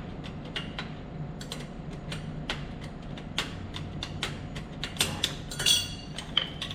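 Irregular metallic clicks and taps of hand tools and parts being handled on metal, with a few louder ringing clinks near the end, over a steady low machine-room hum.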